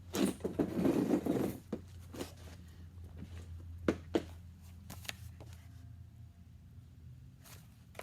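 Rustling and scraping of objects being handled, then a few sharp clicks, over a steady low hum.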